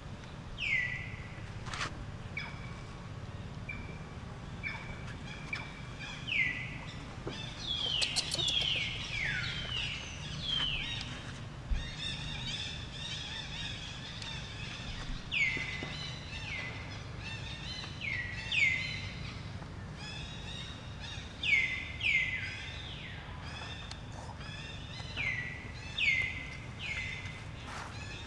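Bird calls: short notes, each dropping in pitch, repeated many times and coming more often in the second half, over a steady low outdoor rumble.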